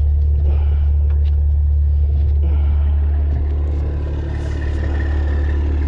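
Diesel tanker truck engine running at a steady idle, with a few faint clicks over it.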